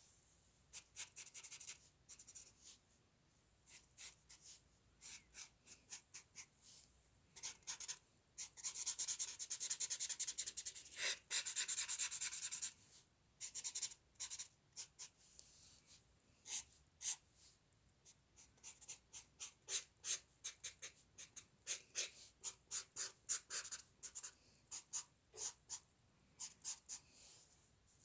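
Hand drawing on paper: short scratchy strokes, with a few seconds of dense, continuous back-and-forth scribbling about a third of the way in and a run of quick repeated strokes in the second half.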